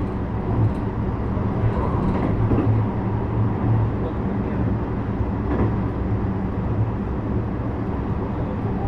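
JR West 321 series electric multiple unit running on the line, heard from inside a passenger car. Steady wheel-and-rail rolling noise under a constant low hum.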